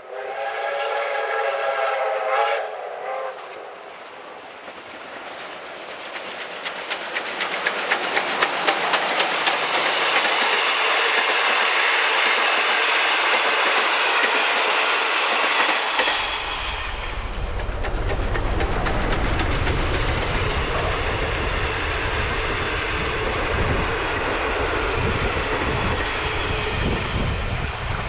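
A train whistle chord sounds for about three seconds. Then a steam-hauled passenger train approaches and passes close by, its wheels clattering faster and louder over the rail joints. About sixteen seconds in, a heavy low rumble suddenly joins the passing train.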